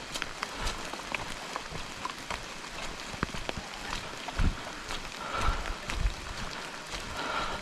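Steady rain falling, with many separate drops ticking sharply close by and a few dull low thumps.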